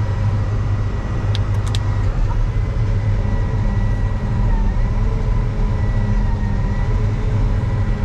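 Combine harvester running steadily with its threshing mechanism switched on, a constant low machine hum with a faint high whine. Three quick clicks come about a second and a half in.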